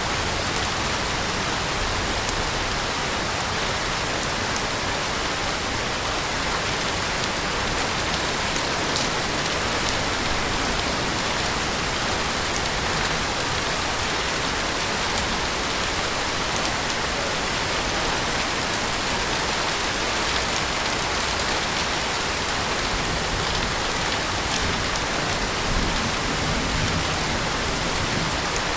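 Heavy rain falling steadily, a dense even hiss of drops striking surfaces with scattered individual drop ticks.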